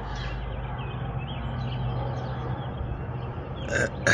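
Songbirds chirping, many short quick calls overlapping, over a steady low hum. There is a brief loud rustle near the end.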